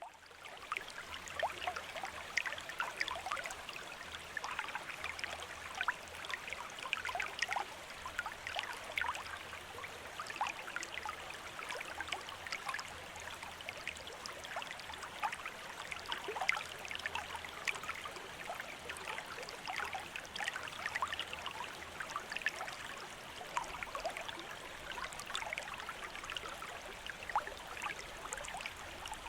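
A small stream trickling and gurgling steadily, with a constant busy scatter of little splashes.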